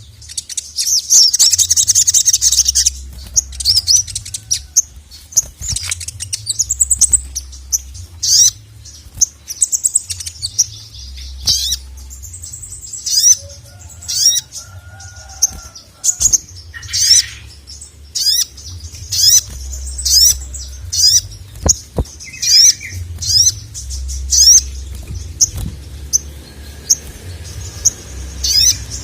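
A sogon (sogok ontong) bird calling excitedly, runs of sharp, high chirps repeated in quick succession with short pauses between the runs. A faint low hum sits underneath.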